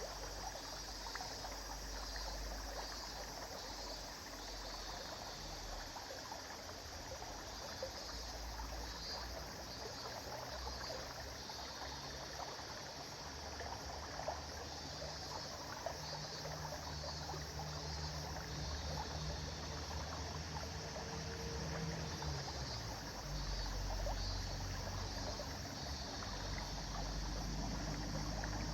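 River water flowing steadily in a continuous rushing babble. A low, steady hum rises underneath it in the second half.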